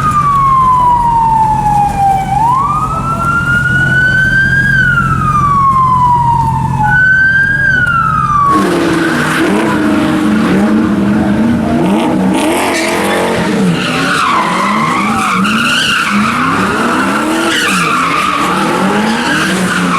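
A siren wailing in slow rising and falling sweeps over a low engine hum. About eight and a half seconds in, the sound cuts abruptly to a car revving hard with tyres squealing, as in a car doing donuts.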